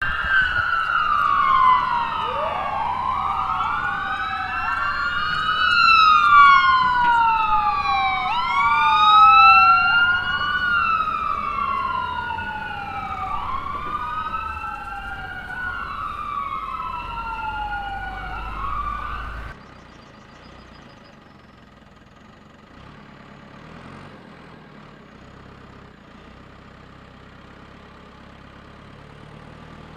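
Several wailing sirens sounding over one another, each pitch falling and jumping back up about every two seconds, until they stop about twenty seconds in; after that only a faint low hum remains.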